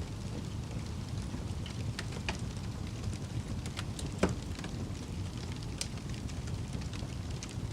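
Fire crackling: a steady low rumble of flames with scattered sharp pops and snaps, the loudest about four seconds in.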